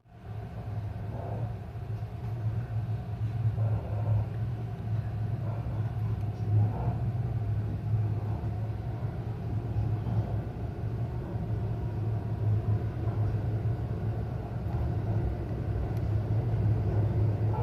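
Electric local train pulling away from a station, heard from inside the carriage: a steady low hum and rumble that slowly grows louder as it gathers speed.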